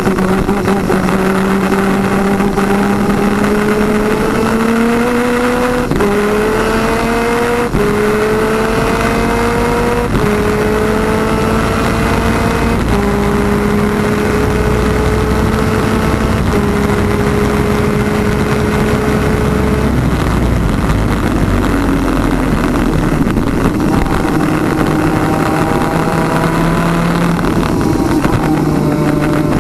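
Onboard sound of a PVP twin-cylinder 250cc two-stroke superkart engine under hard acceleration, its pitch climbing and then dropping back at each of about five upshifts. In the last third the note falls away and runs lower and weaker, with the rush of wind and road noise.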